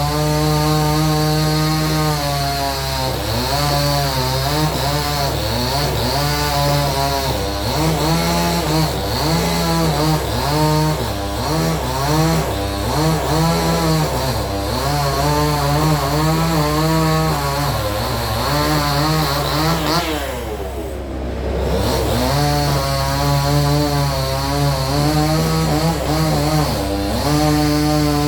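Two-stroke chainsaw cutting through a large tree, its engine pitch rising and falling as it bites into the wood. About twenty seconds in it drops briefly toward idle, then revs back up and carries on cutting.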